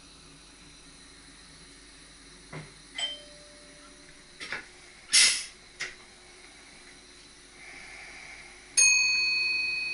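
Inside a train cab: a few clicks and a short, loud hiss about five seconds in, then near the end a single struck chime that rings on in several clear tones and slowly fades.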